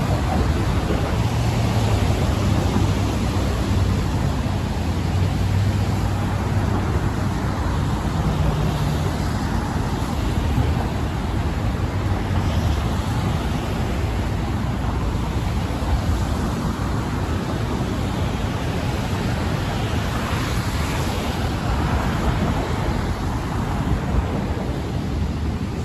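Steady city traffic rumble mixed with wind, a constant low drone with no single sound standing out.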